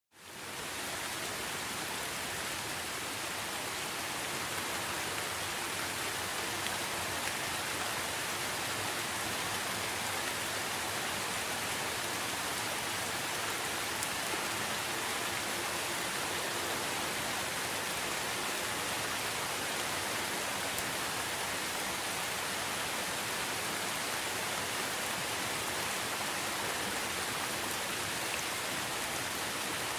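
Steady rain falling, an even hiss of drops that fades in over the first second and then holds at a constant level.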